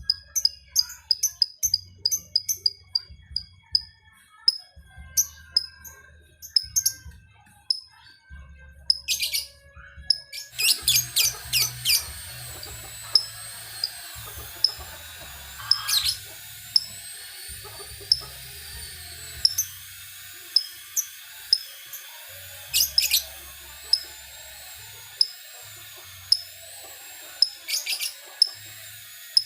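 A lovebird chirping in a steady series of short, high ticking notes, a few a second, broken now and then by louder quick runs of chirps: the 'ngetik' call of a lovebird still learning it. About ten seconds in, a steady hiss and a faint wavering high whistle come in behind the chirps.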